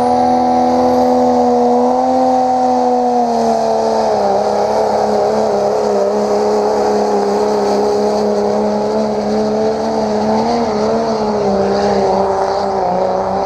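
Mud-drag truck's race engine running hard at high revs through the mud pit. The pitch drops about three seconds in, holds with small wavers, and climbs again near the end.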